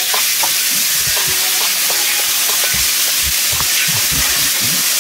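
Chopped onions, tomatoes and hot peppers sizzling steadily in coconut oil in a pan as a spoon stirs them, with light scrapes of the spoon on the pan and several soft low knocks in the second half.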